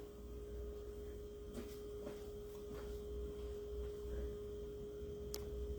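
A faint, steady single-pitched hum with a low rumble under it, a few faint knocks, and one sharp click near the end.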